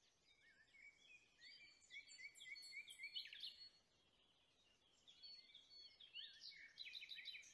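Faint birdsong: small birds chirping in short, rising notes, in two spells with a pause of about a second and a half in the middle.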